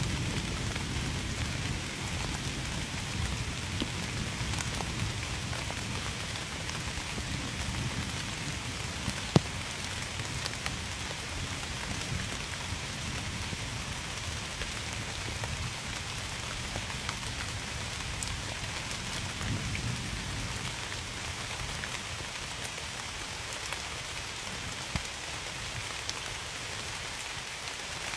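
Steady rain falling and pattering on a surface, with scattered close drip ticks and one sharp tick about nine seconds in. A low rumble dies away over the first few seconds.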